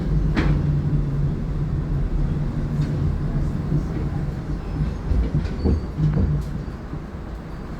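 Tatra T6B5SU tram running with a steady low rumble and hum, a sharp clack about half a second in and a few lighter knocks; it gets a little quieter near the end.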